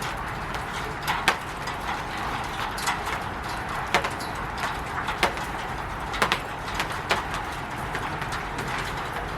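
Rain falling on a roof: a steady hiss of rainfall with heavier drops landing as sharp, irregular taps every second or so.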